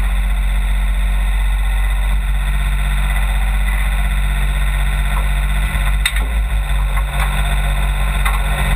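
Brush truck's engine running steadily with a deep hum. From about six seconds in, a few sharp knocks or clicks come over it.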